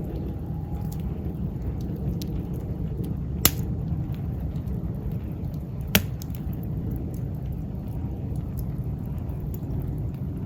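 Wood campfire burning with a steady low rumble and scattered small crackles, and two sharp loud pops a couple of seconds apart.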